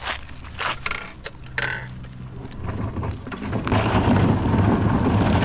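A few knocks and clicks. From about three seconds in, a motor vehicle's engine hums, and near four seconds a loud rumble comes in as the kayak trailer gets under way and stays to the end.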